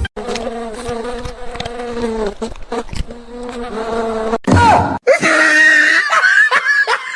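A steady, even buzzing drone for about four seconds, then loud laughter from about five seconds in.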